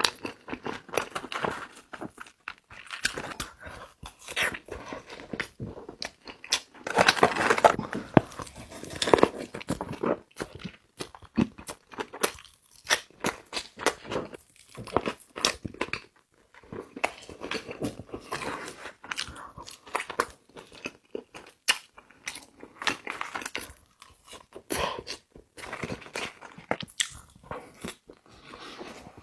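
Close-miked eating of In-N-Out fast food: biting and crunchy chewing with many wet clicks and smacks. The chewing is densest and loudest around seven to ten seconds in.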